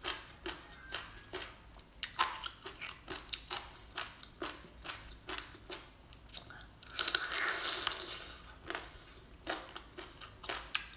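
Close-miked mouth sounds of a person biting and chewing rubbery braised octopus head: wet smacking clicks two to three a second. A longer, louder stretch of wet mouth noise comes about seven seconds in.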